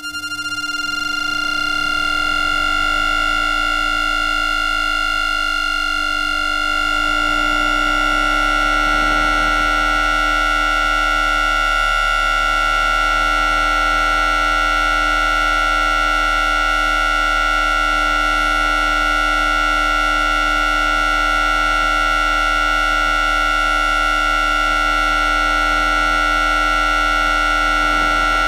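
Alstom Citadis 302 tram's ONYX IGBT-VVVF traction inverter picked up electromagnetically by an induction coil: a steady high whine at its carrier frequency of around 1400 Hz, used below 40 km/h. Lower tones slide upward over the first eight seconds or so, then hold steady, over a low hum.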